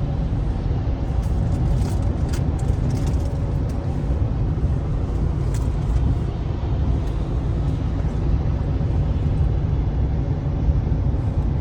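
Steady road and tyre rumble heard inside the cabin of a 2023 Honda CR-V Touring Hybrid driving on the highway. A few faint ticks come about two to three seconds in.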